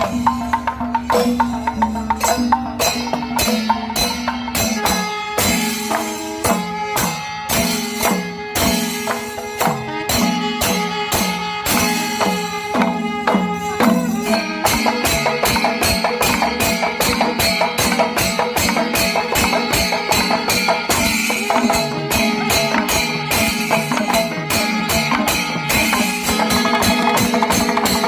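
Kerala temple melam: a chenda drum ensemble playing fast, dense strokes with clashing cymbals and held pitched notes. The playing thickens and gets a little louder about halfway through.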